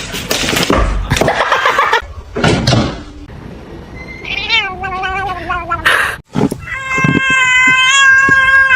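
A cat meowing: a wavering call around the middle, then one long, drawn-out yowl near the end, after a couple of seconds of noisy scuffling.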